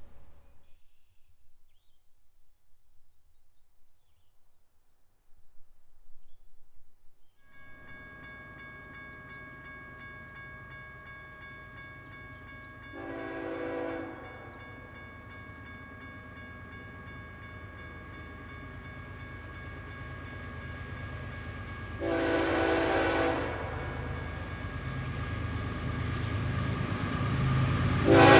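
BNSF diesel freight train approaching, its engine sound starting faintly about a quarter of the way in and slowly growing louder. The locomotive's horn sounds two blasts, a short one about halfway and a longer one past two-thirds, and a third blast starts at the very end.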